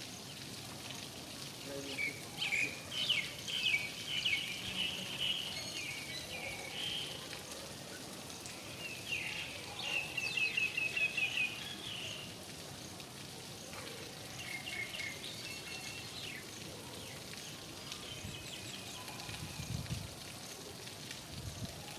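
Steady rain falling, with a bird calling in runs of quick chirps: two longer bouts in the first half and shorter ones later.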